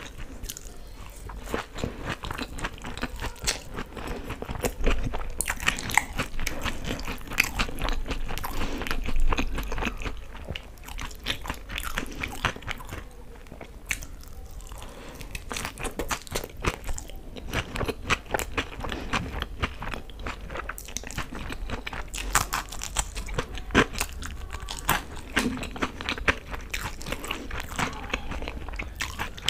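Close-miked biting and chewing of fried pakoras coated in green chutney, with many irregular crunches.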